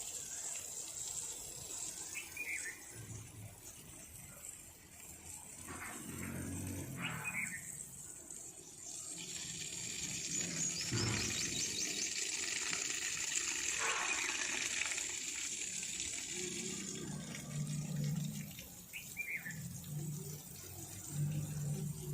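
Running water with birds chirping now and then; the water swells to a louder rush in the middle stretch, with a quick bird trill over it.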